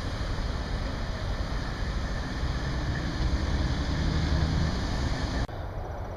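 Steady outdoor rumble of highway traffic with wind on the microphone. It drops suddenly and becomes quieter about five and a half seconds in.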